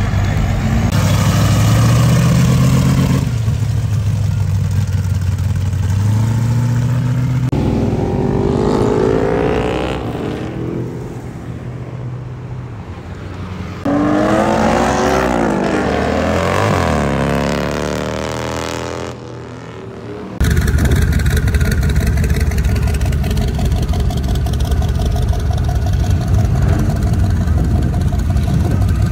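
Vehicles driving past one after another on a street, their engines rising and falling in pitch as they accelerate. The sound cuts abruptly several times from one passing vehicle to the next.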